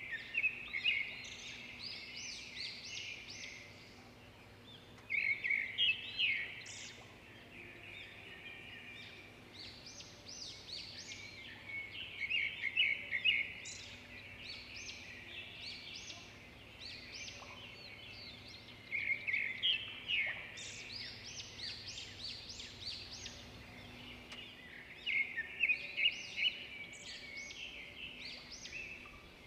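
Birds chirping: clusters of quick, high chirps and trills every few seconds, with short pauses between.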